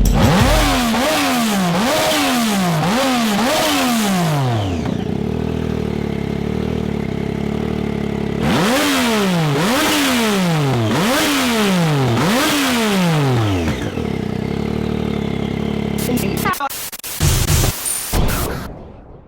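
Turbocharged Triumph Street Triple inline-three motorcycle engine with a race-style exhaust, revved in a run of four quick pitch sweeps, then held at a steady note, then revved in another run of four sweeps, each sweep carrying a whooshing hiss from the vent-to-atmosphere blow-off valve. Near the end come a few sharp cracks before the sound stops suddenly.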